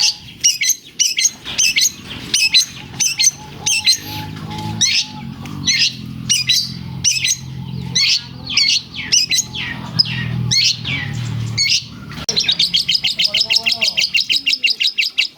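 Long-tailed shrike (cendet) singing a rapid run of sharp chirps copied from lovebird song, ending in a fast, even trill over the last three seconds. A low hum sits underneath in the middle part.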